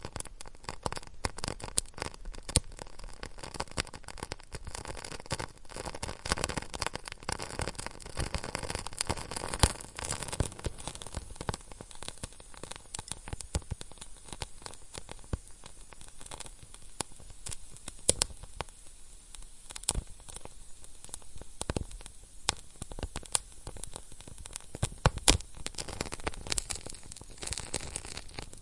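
Wood fire burning in a fireplace: a steady soft hiss with irregular crackles and sharp pops, a few louder snaps scattered through.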